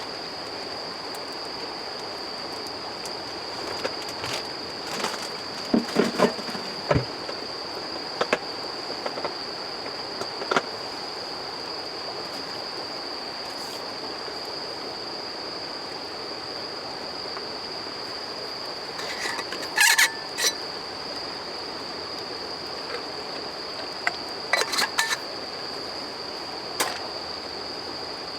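Crickets chirring steadily on one unbroken high note over a soft hiss, with a few scattered sharp clicks and crackles, clustered about five to seven seconds in, around twenty seconds, and around twenty-five seconds.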